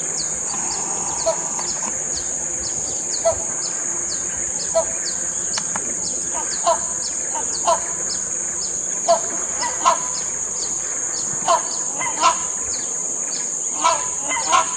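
Bird chirps repeated several times a second over a steady, high, shrill insect drone, with a lower bird call every second or so.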